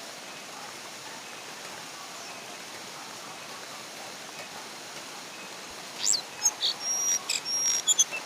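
Steady hiss of rain. About six seconds in, a brown jongkangan starts calling: a quick rising whistle, then a rapid string of short, high notes and brief held whistles.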